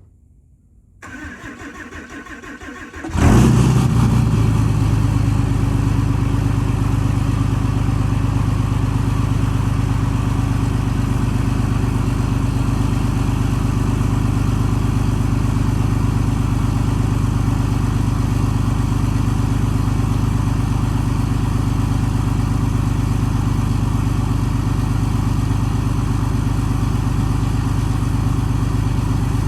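Straight-piped 6.7 Cummins diesel in a 2007.5 Dodge Ram 2500 cold-starting, not plugged in and with its grid heater deleted: it cranks for about two seconds, catches about three seconds in, and then runs at a steady high idle.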